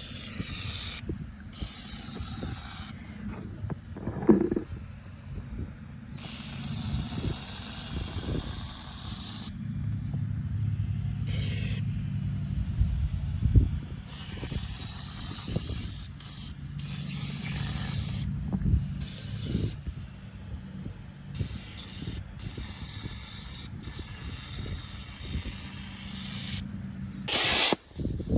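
Aerosol can of penetrating oil sprayed in repeated hissing bursts, each lasting from under a second to a few seconds, with scattered short knocks between them and a low steady hum underneath.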